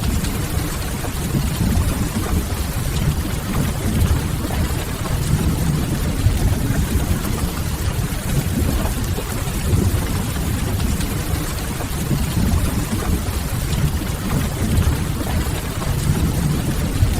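Ambience mix of steady rain on a window and a wood fire crackling in a fireplace: a constant hiss of rain over a deep, even rumble, with no pauses.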